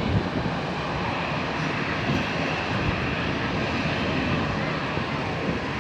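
Steady aircraft engine noise, an even noise with no distinct pitch that holds level throughout.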